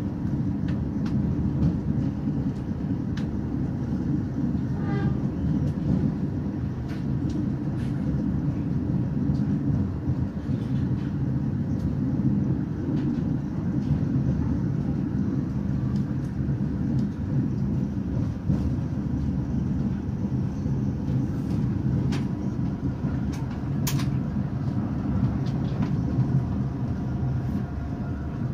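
Passenger train running, a steady low rumble with occasional sharp clicks.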